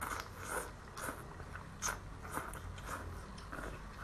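Close-up wet chewing and mouth smacking of someone eating spicy razor clams, a string of short moist clicks.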